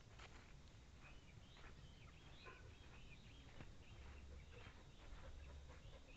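Quiet forest ambience with faint, scattered bird chirps throughout.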